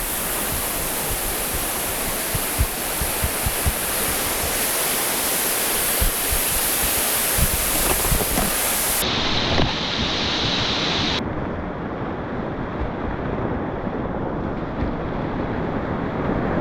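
Rushing whitewater of a mountain river in spate, a steady loud wash of noise from the rapids around a kayak. About eleven seconds in, the high hiss suddenly drops away.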